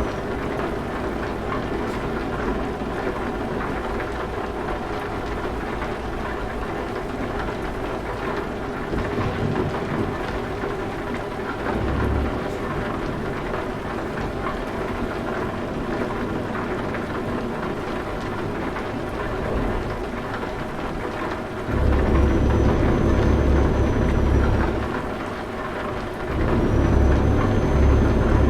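Truck engine running steadily under a continuous hiss. A heavy low rumble comes in about three-quarters of the way through, dips briefly, and returns, with a faint high whine alongside it.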